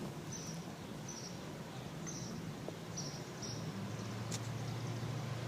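Low rumble of an approaching train, slowly growing louder, with a short high chirp repeating about once a second.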